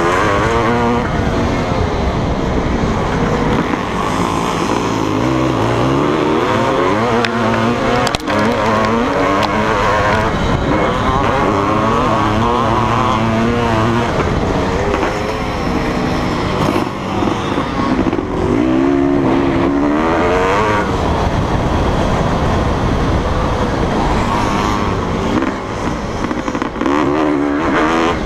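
Honda CR500's two-stroke single-cylinder engine, heard from a camera mounted on the bike, revving hard and falling back over and over as it is ridden round a motocross track. A single sharp knock about eight seconds in.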